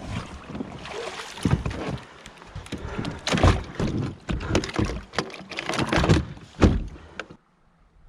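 Irregular splashing and knocking as a kayaker climbs out of a kayak into shallow river water and moves it, the hull and gear bumping. The sounds cut off abruptly near the end.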